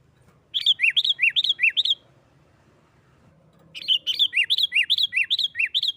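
Sooty-headed bulbul (kutilang) singing its agitated 'nggaruda' fighting song: two bursts of quick, repeated two-note phrases, about three a second, with a short pause between the bursts.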